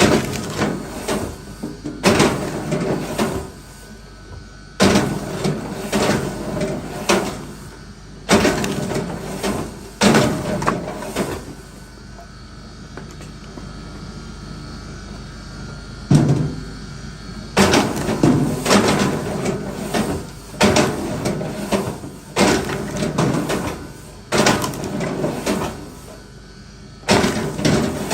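Irregular wooden knocks and thuds from firewood being struck and handled, often several in quick succession, with a quieter pause of a few seconds around the middle.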